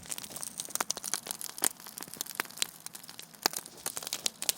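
Campfire crackling: irregular sharp pops and snaps, a few of them louder, over a faint hiss.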